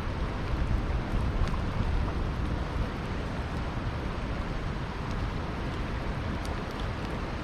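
Campfire burning beside a flowing river: a steady low rushing noise with a few faint crackles from the fire.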